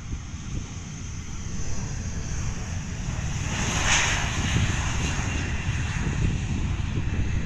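Airliner engines running as the aircraft passes close by, a steady jet roar with a high whine that builds to its loudest about four seconds in and then holds.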